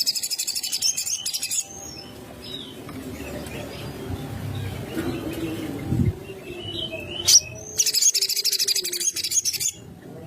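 Small songbird (sogon) singing rapid, high chattering trills. One trill runs about a second and a half, and another of about two seconds starts near the eight-second mark, with scattered soft chirps between them over a low background rumble.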